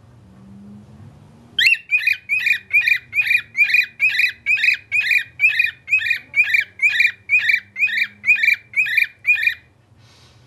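Pet bird calling a fast, even run of about twenty identical short whistled notes, about two and a half a second. The run starts about a second and a half in and stops near the end.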